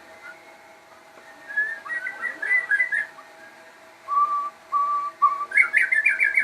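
Crossbred murai songbird singing vigorously: a quick run of warbled notes, then three clear held whistles, then a fast rattling run of notes near the end.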